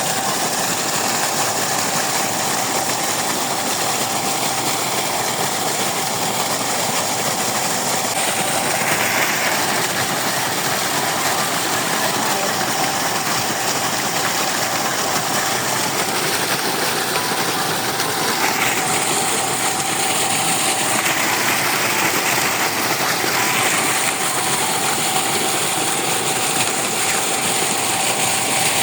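GEC 5-horsepower electric water pump running steadily under load: a constant motor hum over a loud, even rushing noise of pumped water.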